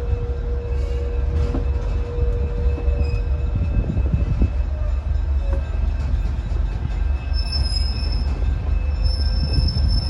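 Train rolling slowly with a steady low rumble; about seven seconds in, high-pitched wheel squeal starts and comes and goes.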